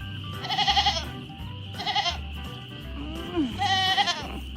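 Three short, trembling, high-pitched animal calls over background music with a steady bass.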